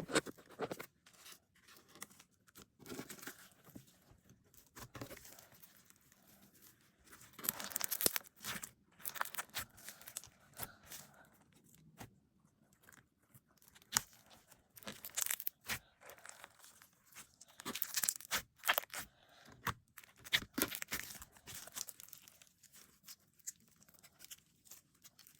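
Slime being squeezed, stretched and folded by hand, giving irregular crackles and sticky pops.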